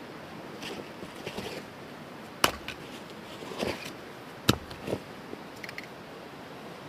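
Two sharp knocks about two seconds apart, with quieter clicks and rustling between them over a steady hiss.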